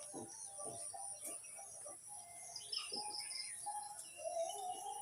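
Pet parrot chirping in short calls, then a longer drawn-out call near the end.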